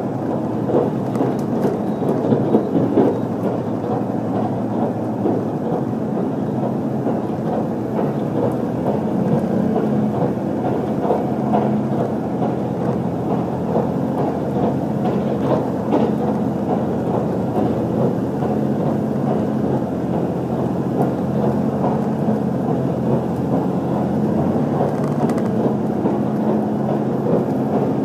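Running noise inside an HC85 series hybrid diesel train car: a steady rumble of the wheels on the rails with a low hum underneath.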